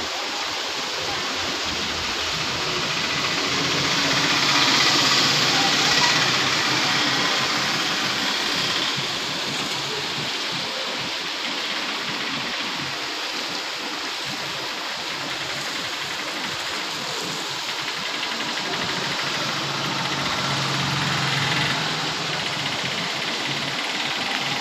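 Heavy rain falling steadily on a paved road, with the engines of passing scooters and a car and the hiss of their tyres on the wet surface. The sound swells twice, a few seconds in and again near the end.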